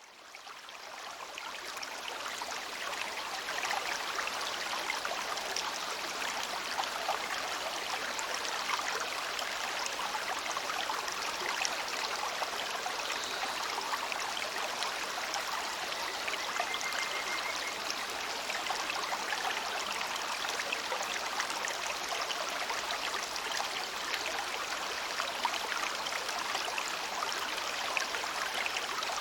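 Shallow river babbling steadily over stones, a continuous dense patter of water, fading in over the first few seconds.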